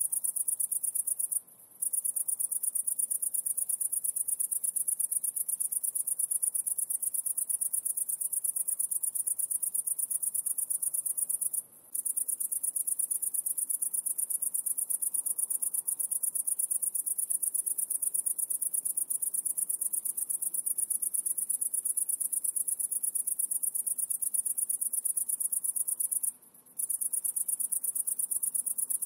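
A high-pitched insect trill of very rapid, even pulses, like a cricket or katydid, going on steadily with three brief pauses.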